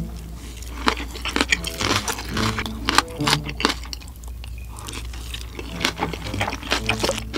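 Close-miked chewing and biting of mouthfuls of mixed rice (bibimbap), with many sharp wet mouth clicks and smacks.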